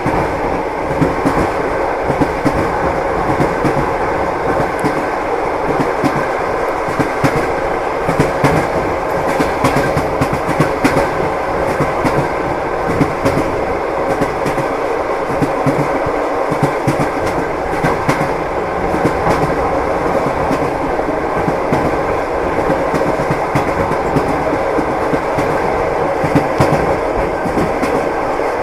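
Railway train running steadily, its wheels clattering over the rail joints above a continuous rumble.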